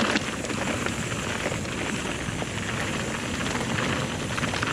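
Evil The Calling mountain bike rolling fast down a dirt singletrack: steady tyre noise on the trail surface with a constant clatter of small rattles and knocks from the bike over rough ground.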